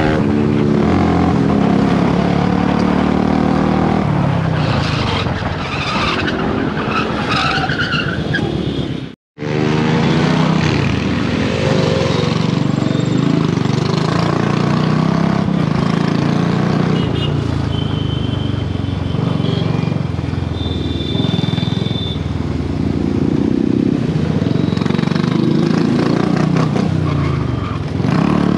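Royal Enfield Bullet 350's single-cylinder engine at riding speed, revving up and easing off again and again so its pitch keeps rising and falling. The sound cuts out for a moment about nine seconds in.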